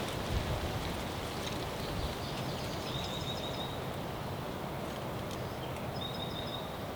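Steady outdoor background hiss of wind and rustling, with two short, rapid, high-pitched trills, each under a second long, about three seconds in and again near the end.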